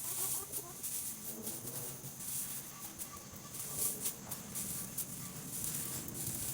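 Hens clucking softly, with straw rustling and a few light knocks.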